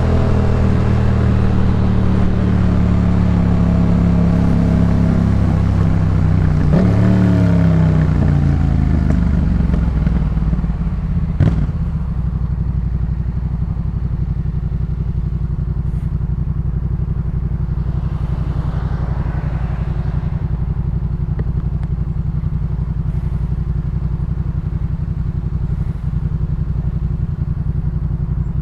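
A 2018 Yamaha MT-07's 689 cc parallel-twin, breathing through a Jeskap K4 full exhaust, runs steadily at road speed. About 7 s in the engine note jumps briefly and then falls away as the bike slows. A sharp click comes just after 11 s, and the engine then settles into a steady, pulsing idle.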